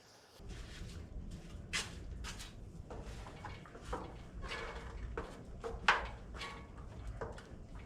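Scattered knocks, clicks and scrapes of objects being handled and set down, over a steady low rumble.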